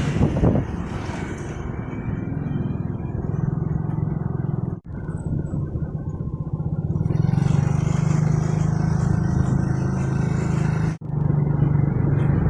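Motorcycle engine running steadily while riding, with wind rushing on the microphone near the start. The sound drops out sharply for a moment twice, about five and eleven seconds in.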